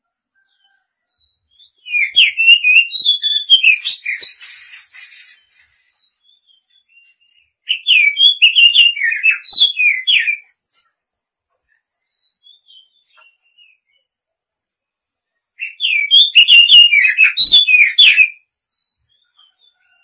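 Oriental magpie-robin singing: three phrases of quick, varied whistled notes gliding up and down, each lasting about three seconds, separated by pauses of a few seconds.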